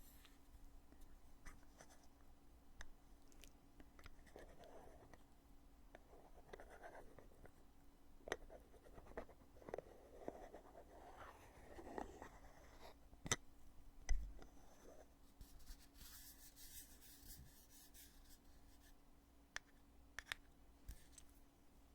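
The lid of a foundation compact being handled, opened and closed: quiet rubbing and scraping with several sharp clicks, and a brief hiss about three-quarters of the way through.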